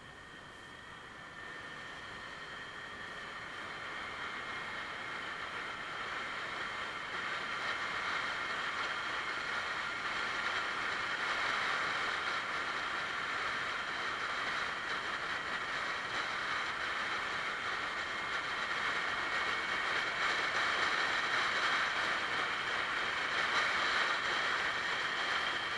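Yamaha Axis 90 scooter's two-stroke engine and wind noise on the move, growing louder over the first ten seconds as it gathers speed, then holding steady. Its variator runs on freshly fitted 6.5 g weight rollers and a new drive belt.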